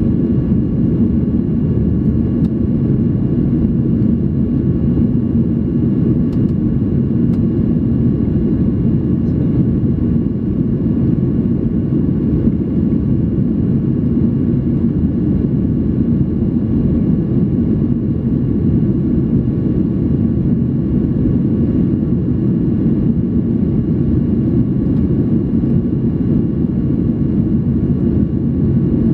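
Steady cabin noise of a Boeing 737-800 in flight: an even, low rush of its CFM56 turbofans and the airflow over the fuselage, with faint steady high tones above it.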